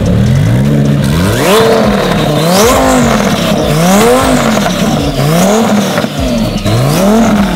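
Car engine revved hard up and down over and over, about six rising-and-falling swells, with tyres squealing high above it.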